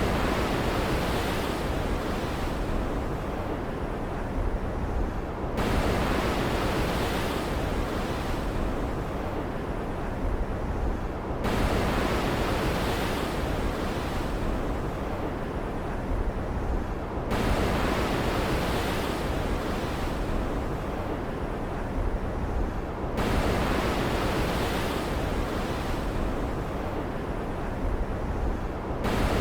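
Ocean waves in a stormy-sea ambience: a continuous rushing surf over a deep rumble, swelling suddenly about every six seconds and slowly fading each time.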